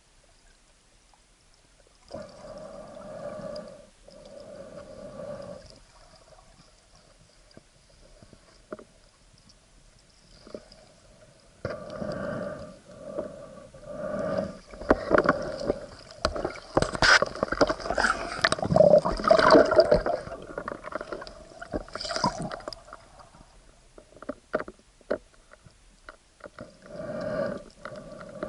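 Water sloshing and gurgling heard through an action camera's waterproof housing during a spearfishing dive, with a hollow ringing colour. It comes in short bursts at first, then a long busy stretch of splashing and clicks in the middle, and another burst near the end.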